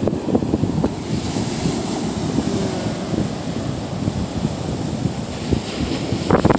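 Gulf of Mexico surf washing onto the beach, with strong wind buffeting the microphone.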